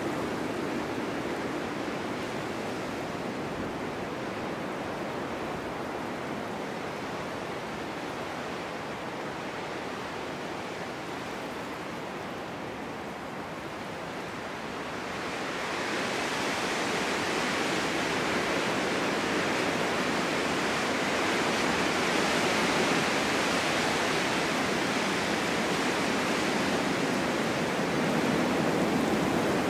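Snowstorm wind blowing steadily, swelling about halfway through into a louder, hissier gust that holds on.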